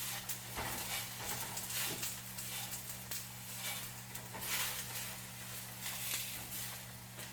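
Onion sizzling in hot oil in a frying pan, with frequent small crackles and pops, over a steady low hum.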